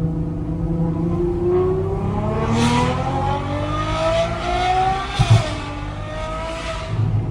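Straight-piped, Stage 2 tuned Ferrari 812 Superfast's 6.5-litre V12 accelerating hard, its pitch climbing for several seconds. About five seconds in the revs drop, with a short loud thump, and the engine then settles at a lower, steadier note.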